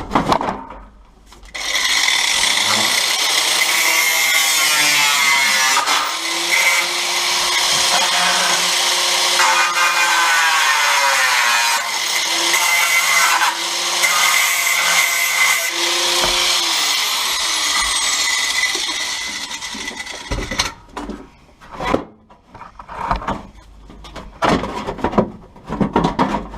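A power cutting tool working through the steel floor panel for about eighteen seconds, its motor pitch dipping and recovering as it bites, then stopping. Short knocks and clatter follow.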